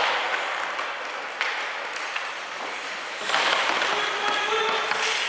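Ice hockey rink crowd noise from spectators, with a sharp knock about a second and a half in and the crowd swelling with shouts about three seconds in.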